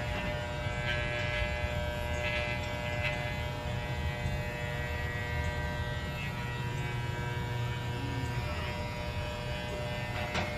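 Electric pet clippers running with a steady buzzing hum as they shave a small dog's coat.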